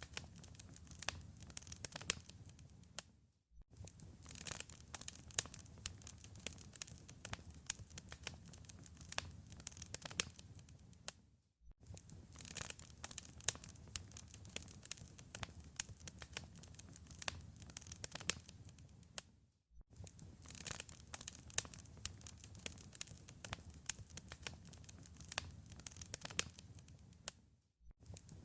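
Wood fire crackling, with a steady low rumble and many sharp pops and snaps. The sound cuts out briefly about every eight seconds, four times.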